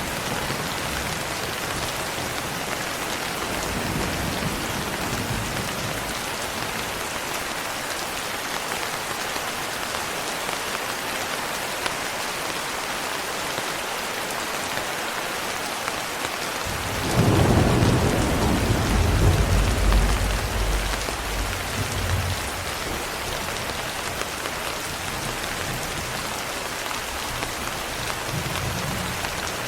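Steady heavy rain, with a thunderclap a little past halfway that rumbles for about five seconds before fading. Fainter, distant rumbles of thunder come near the start and near the end.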